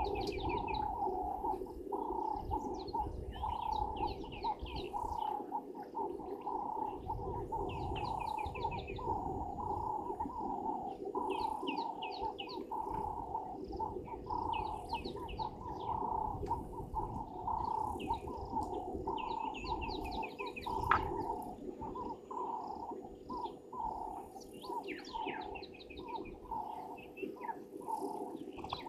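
Wild birds calling: bursts of rapid chirps every couple of seconds over a steady, lower, continuous cooing chorus.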